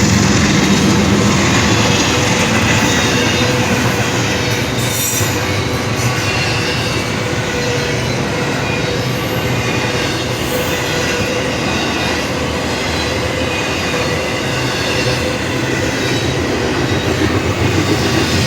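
A train rolling past at close range: a steady, loud rush of wheels on rail with a thin, steady squeal of the wheels riding over it.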